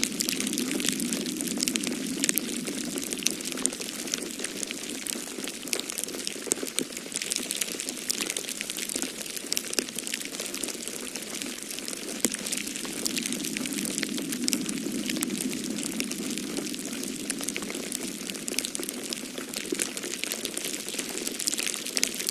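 Wood fire crackling in a fireplace, a steady stream of small pops and snaps, over a low rush of storm wind that swells and eases twice.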